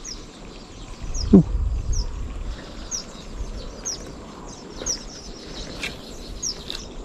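A bird repeating short, high, down-slurred chirps roughly once a second over a steady outdoor hiss. A brief low rumble with a falling tone about a second in is the loudest moment.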